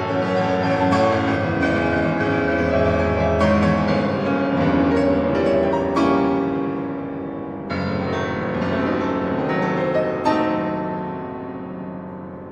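Relaxing piano music: slow, sustained chords and notes that ring on and fade out near the end.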